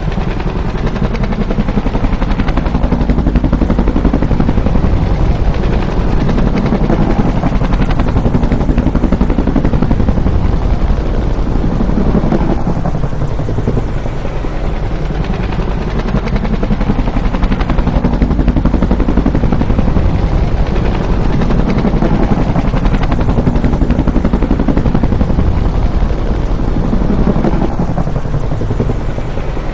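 Bell UH-1 "Huey" helicopter running loud and close, its two-bladed main rotor beating rapidly over the engine noise. The sound swells and eases slightly every five seconds or so.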